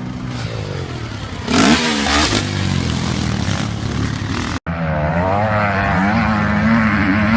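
Motocross dirt bike engines revving, the pitch rising and falling with the throttle, with a louder, harsher surge about a second and a half in. The sound cuts abruptly about two-thirds through to another bike's engine, which winds up in pitch.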